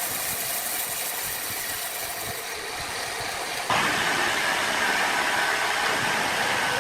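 Sawmill machinery running with a steady mechanical noise; about halfway through the sound jumps suddenly louder, with a steady high whine over it.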